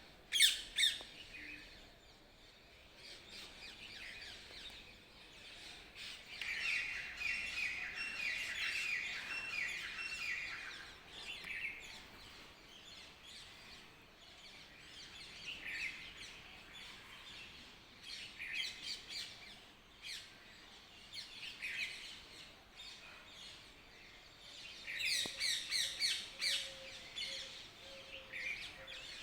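Birds chirping and calling, several short calls spread out, with a fast run of repeated notes from about six to eleven seconds in and a busy burst of high chirps near the end.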